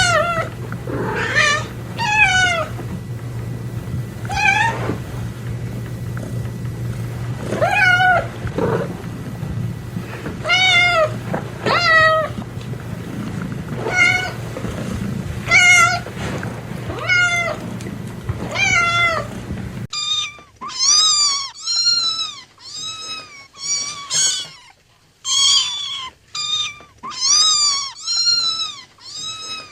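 Domestic cats meowing. First, separate meows every second or two over a steady low hum. About 20 seconds in, it cuts to a different, cleaner recording of a cat meowing rapidly, about once a second.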